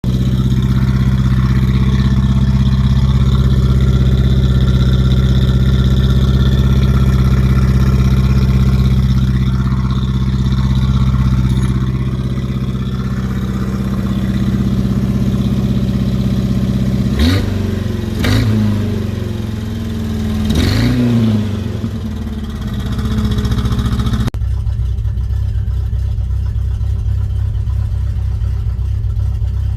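Ford Ranger with an M80 muffler, its exhaust idling steadily, then revved briefly three times a little past the middle before dropping back to idle. Near the end the sound suddenly turns duller, leaving only the low exhaust drone.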